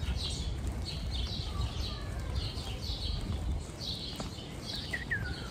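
Small birds chirping over and over, two or three short high chirps a second, with a brief falling whistle near the end, over a low rumble.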